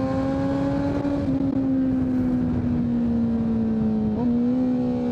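2023 Kawasaki Z900's inline-four engine through a full Leo Vince aftermarket exhaust, running at steady riding revs. Its pitch rises slightly over the first second, then eases off, with a brief dip about four seconds in.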